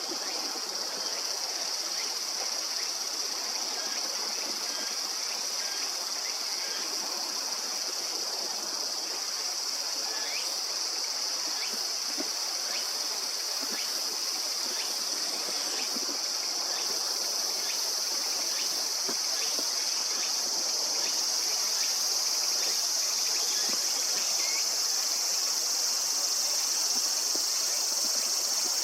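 A steady, high-pitched insect chorus that grows a little louder after about twenty seconds, over the even rush of a mountain stream.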